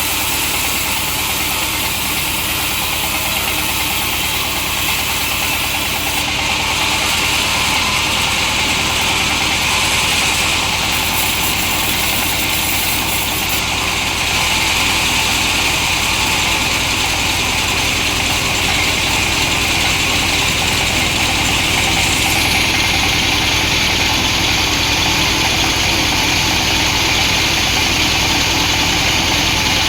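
Long-bar chainsaw running steadily at a constant pitch while ripping a hardwood log lengthwise.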